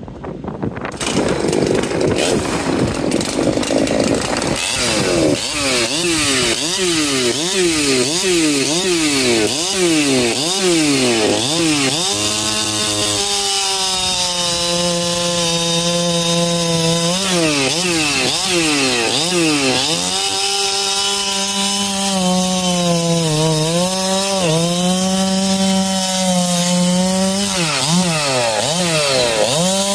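Husqvarna 371 chainsaw converted to 372 spec, with a ported cylinder, pop-up piston and base gasket delete, running its two-stroke engine at full throttle while cutting wood. For the first dozen seconds the engine pitch swings up and down quickly, over and over. After that it holds a high, steady pitch in the cut, sagging briefly several times as the chain loads up.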